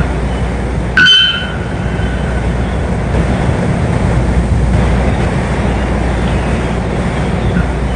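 A bird gives one short, loud call about a second in, over a steady low rumbling noise.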